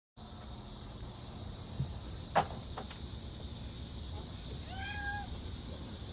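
A cat meows once, a short arched call about five seconds in, over a steady high buzz of cicadas. A few sharp taps come a couple of seconds in, the loudest about two and a half seconds in.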